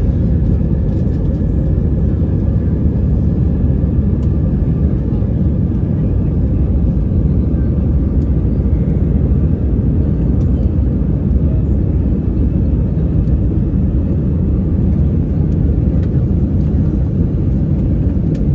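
Airbus A320 engine and airflow noise heard inside the passenger cabin: a loud, steady rumble with a faint steady whine above it.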